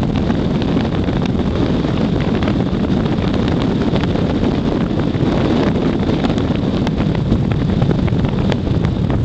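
Wind buffeting the microphone: a loud, steady, rumbling rush with crackling gusts and no engine note.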